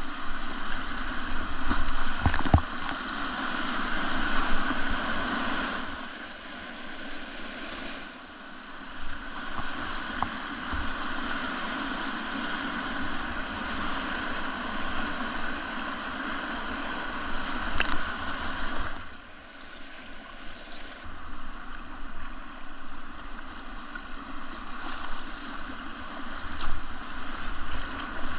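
Whitewater of a river rapid rushing and splashing around a kayak, swelling and easing twice as the boat moves through it.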